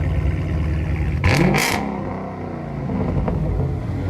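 Dodge Daytona 392's 6.4-litre HEMI V8, straight piped with mufflers and resonators deleted, idling and then blipped once a little over a second in, its pitch rising and falling back to idle.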